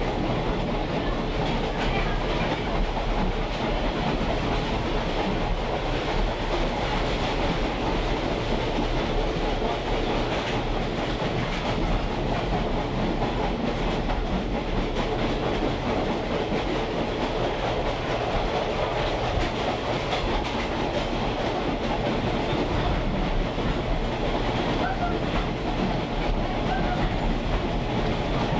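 Train in motion heard from aboard a caboose: a steady rumble and rattle of steel wheels rolling on the rails.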